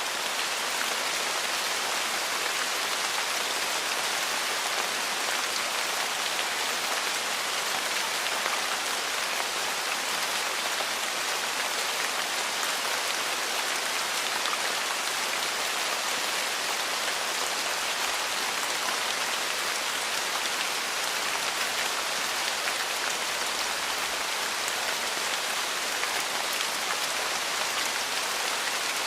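Steady rainfall, an even hiss of many drops that does not change.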